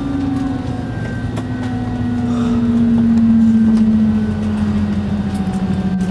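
Airbus A320's jet engines spooling down, a steady whine sliding slowly lower in pitch, heard from inside the cabin.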